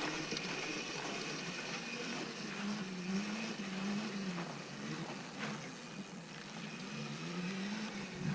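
A child's mini bike running, its motor note rising and falling again and again as the throttle is twisted and let go.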